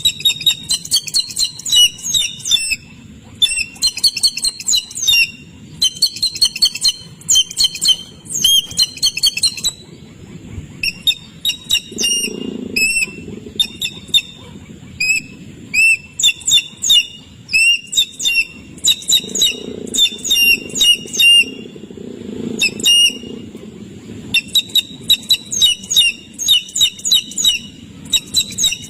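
Birds chirping rapidly and insistently: short, sharp, high-pitched chirps several per second in long runs broken by brief pauses, over a faint low rumble.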